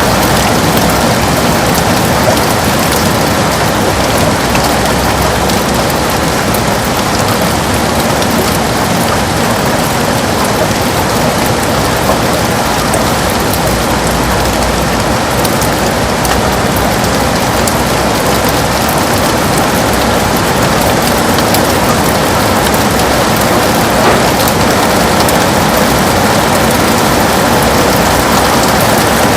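Heavy rain falling steadily and densely on a window.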